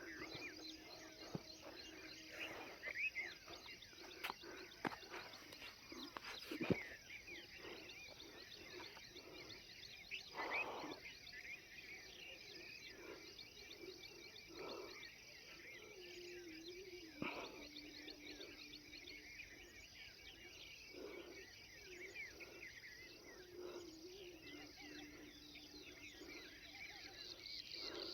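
Faint outdoor ambience of insects, crickets among them, chirping steadily, over a low steady hum and a few scattered soft knocks.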